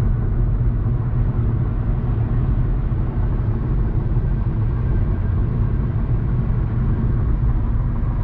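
Steady low rumble of road and engine noise from a car driving at highway speed, heard from inside the car.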